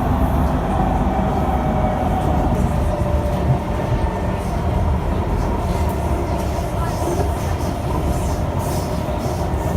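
SMRT C151 metro train (Kawasaki Heavy Industries) running, heard from inside the car: a steady noise of wheels on rail with a faint whine that holds near one pitch.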